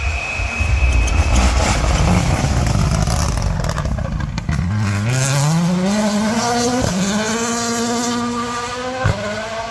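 Rally car engine at full throttle on a gravel stage: a loud rush of engine and gravel noise at first, then the engine note climbing steadily as the car accelerates, with two quick upshifts in the second half.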